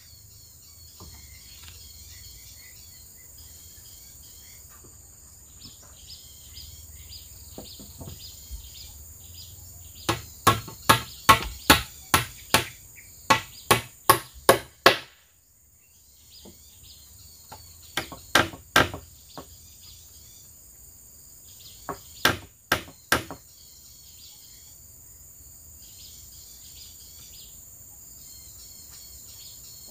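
Repeated sharp blows of a hand tool, about two a second, in three bursts: a run of about ten near the middle, then two shorter runs of about four. Crickets and other insects chirr steadily underneath.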